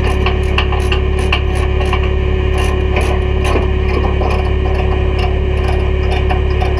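Diesel engine idling with a steady low drone, with irregular metallic clicks and clanks over it.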